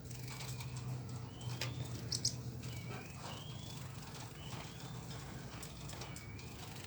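A crowd of caged konin (small birds sold as 'kolibri ninja') calling: short thin sliding chirps repeated every second or so, with scattered sharp ticks and a low steady hum beneath.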